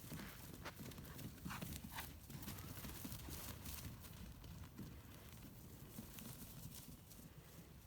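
Hoofbeats of miniature donkeys running, a faint, irregular patter of hoof strikes on the ground.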